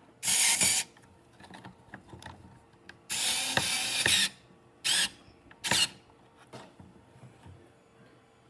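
Powered screwdriver driving a fan mounting screw into a power supply, running in four short bursts, the longest just over a second.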